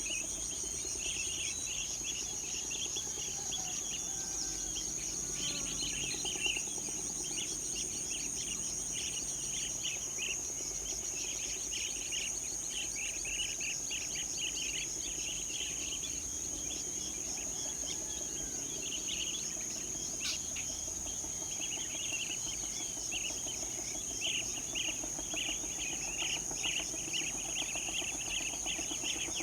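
Early-morning birdsong: many birds chirping over and over, over a steady high-pitched insect drone.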